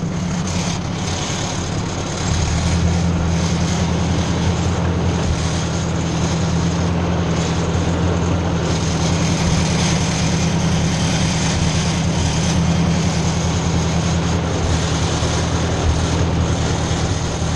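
Ford 600 tractor's four-cylinder engine running steadily, picking up to a louder, higher speed about two seconds in.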